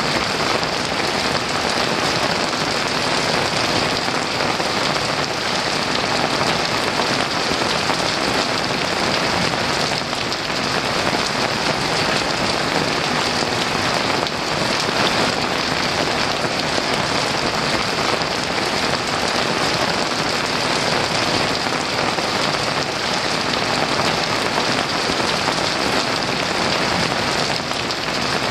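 Heavy rain falling steadily, a dense even hiss of many drops with no thunder.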